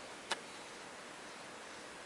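Faint steady hiss with a single short click about a third of a second in.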